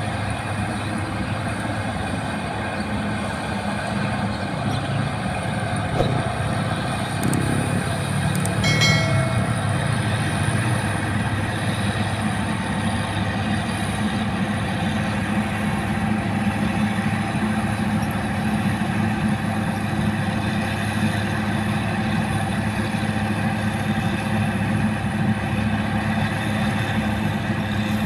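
Rice combine harvester running steadily: its engine and machinery make a continuous low drone, with a brief high-pitched tone about nine seconds in.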